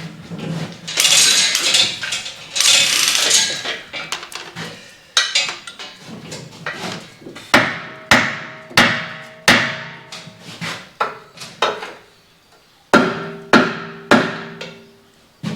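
A hammer striking the steel of a winch, about a dozen sharp blows that each ring briefly, coming roughly one to two a second in the second half, as the pillar bearing on the other side of the shaft is knocked off. Near the start there are a couple of seconds of harsh rasping noise.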